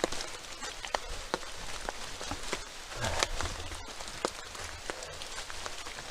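Rain falling, with many sharp drop ticks close by, and the footsteps of someone walking through the wet.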